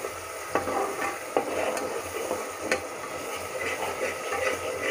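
Onion-tomato spice masala frying in oil in a pressure cooker while being stirred with a metal spoon: a steady sizzle with a few sharp scrapes and clicks of the spoon against the pot. The masala is being sautéed (bhuna) after the garam masala has gone in.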